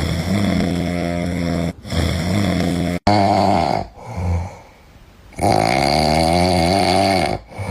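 An animal snoring loudly in several long, low snores of a second or two each, with a pause about midway.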